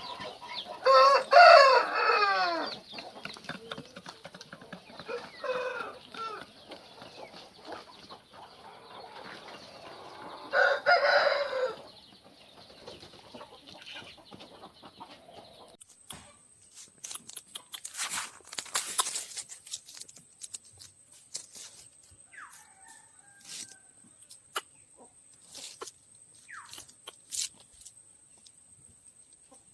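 Aseel rooster crowing loudly about a second in and again about ten seconds in, followed by softer clucks and scattered scratching clicks.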